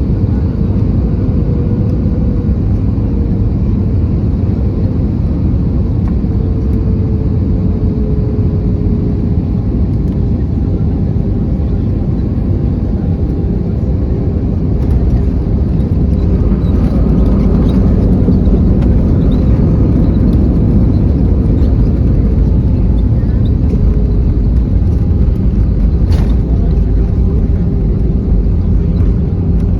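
Cabin noise in an Airbus A320-214: a steady low rumble of engines and airflow, with a tone that slowly falls in pitch and the noise growing a little louder about halfway through.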